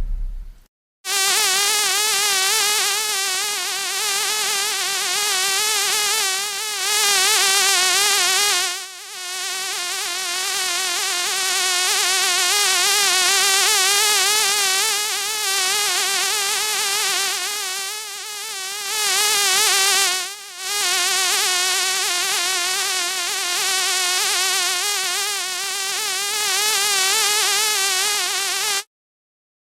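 Insect buzzing: one long, steady buzz with a quickly wavering pitch, dipping briefly three times and stopping abruptly near the end.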